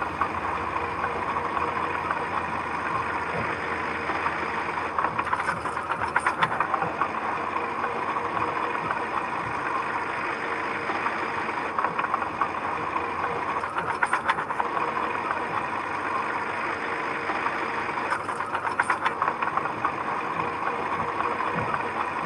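Heavy construction machine's engine running steadily, with three short bursts of rapid clanking.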